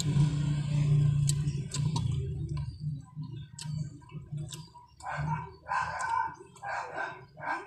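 Close-up mukbang eating sounds: chewing on crispy vegetable fritter with wet mouth clicks and lip smacks, in short bursts about every half second in the latter half. A low hum runs under the first few seconds.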